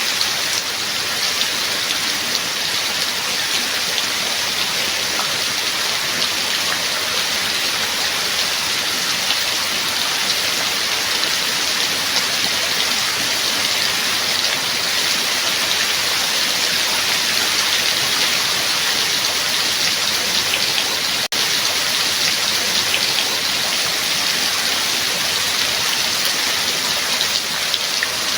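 Steady rain falling, a dense even hiss of drops on a surface, with a split-second dip in level about three quarters of the way through.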